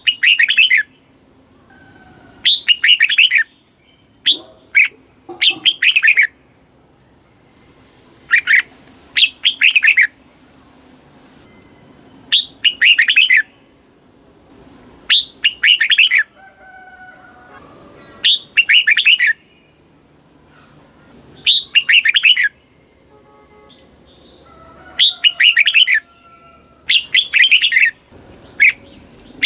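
Red-whiskered bulbul singing: loud, quick phrases of rippling whistled notes, each about a second long, repeated every two to three seconds. Fainter thin whistles sound between the phrases.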